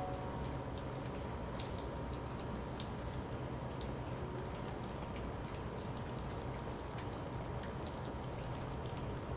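Steady rain, with scattered single drops ticking over an even hiss.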